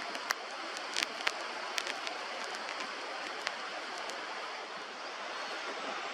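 Steady rush of flowing stream water, with a few short sharp clicks in the first few seconds.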